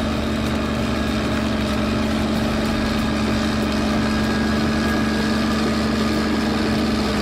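Bulldozer's diesel engine running steadily, a constant even hum.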